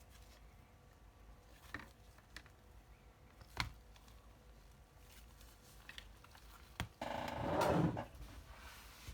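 Handling sounds of a repair bench: a few scattered sharp clicks and taps, then a louder rustle lasting about a second, about seven seconds in.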